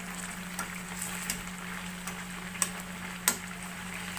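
Chicken pieces sizzling and crackling in oil and barbecue sauce in a frying pan, with two sharp clicks in the second half, the second the loudest. A steady low hum runs underneath.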